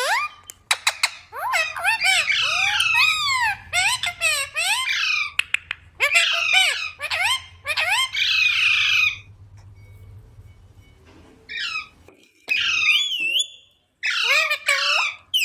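Pet rose-ringed parakeet squawking in rapid runs of high calls that swoop up and down in pitch, busiest for the first nine seconds, then pausing with a few scattered calls before squawking again near the end.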